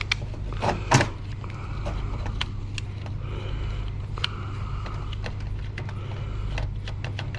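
Scattered light clicks and clatter of computer parts and tools being handled during disassembly, one louder knock about a second in, over a steady low hum.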